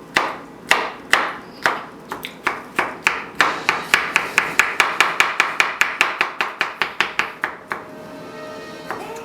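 Kitchen knife chopping through a pickle onto a cutting board in quick, rhythmic strokes that speed up to about five a second, then stop near the end.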